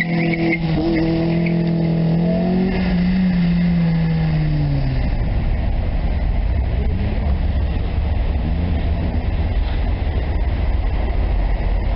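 Daewoo Nexia's engine running under throttle as the car drives off across the car park. Its note holds for a couple of seconds, then drops in pitch and fades out by about five seconds in. After that a steady low rumble remains, with a faint engine note now and then.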